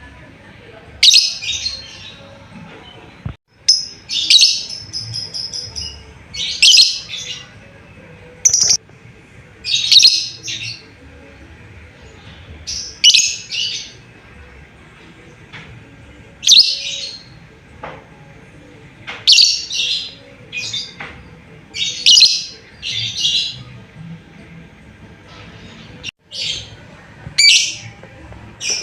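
Lovebird giving shrill, harsh chirping calls in short bursts, one every second or two. They are calls to another bird, used as a lure to get other lovebirds to answer.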